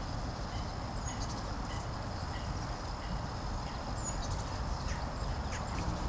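Birds calling outdoors: short high chirps, one of them repeating every two to three seconds, over a steady low rumble.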